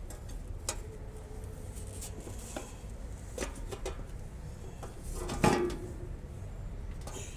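Hard clicks and knocks as the parts of a collapsed hose reel drum are handled and fitted, with the loudest knock about five and a half seconds in, followed by a short ring.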